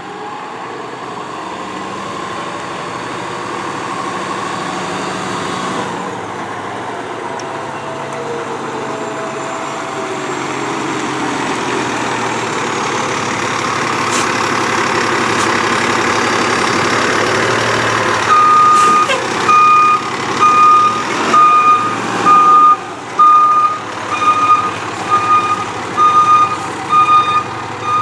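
Fire engine running, its engine noise building steadily louder, then its backup alarm starts beeping about once a second as the truck goes into reverse.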